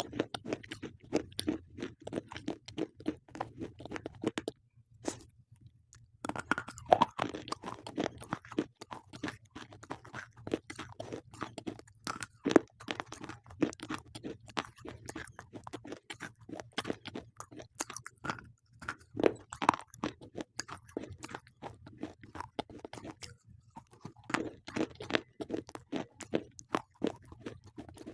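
Slate pencils being bitten and chewed by a person: dense, rapid crunching. It breaks off briefly about five seconds in and again about twenty-three seconds in.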